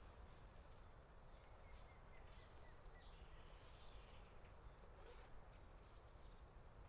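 Near silence: faint outdoor background hiss with a few distant bird chirps, a short run of quick notes about two seconds in and a pair of high chirps a little past five seconds.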